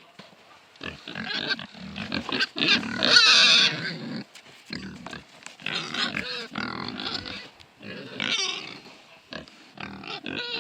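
Pigs squealing in repeated outbursts of wavering, high calls, loudest about three seconds in.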